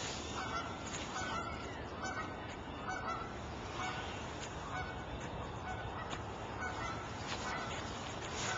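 Repeated short bird calls, about one a second, over a steady background hiss.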